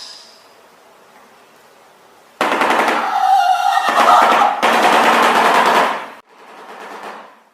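Shoebill clattering its bill in a rapid rattle. The rattle starts suddenly about two and a half seconds in and runs loud for nearly four seconds, then a shorter, quieter bout follows near the end.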